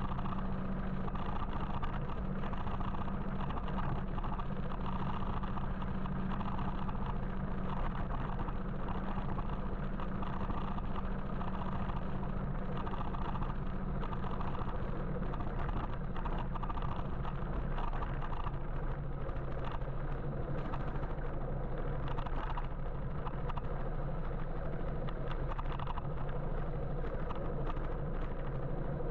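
Steady road and traffic noise heard from a moving electric motorbike, with a low steady hum underneath.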